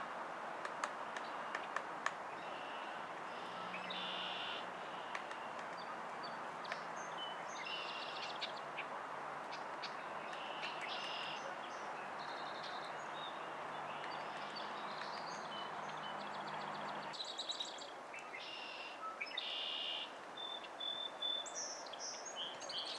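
Wild birds giving short, repeated calls over a steady background hiss, with a few sharp clicks in the first couple of seconds. A low hum underneath cuts off suddenly about three-quarters of the way through.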